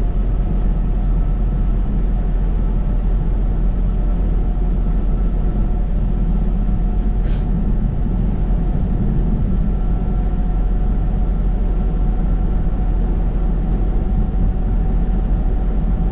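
Steady low drone of a semi-truck's diesel engine and road noise inside the cab while cruising on the highway, with a faint steady whine and one short tick about seven seconds in.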